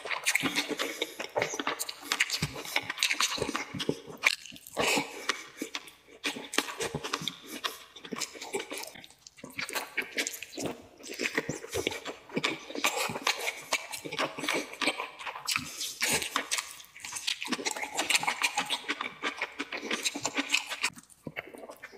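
Close-miked eating: wet chewing and lip smacking on sticky, sauce-glazed roast chicken, a quick run of small smacks and clicks broken by a few short pauses.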